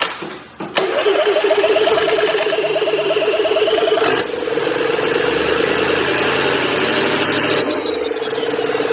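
Mercedes-Benz Actros truck diesel engine starting up just under a second in, after a few clicks. It runs unevenly at first, then settles into a steady idle from about four seconds in, as the first run of the newly assembled engine.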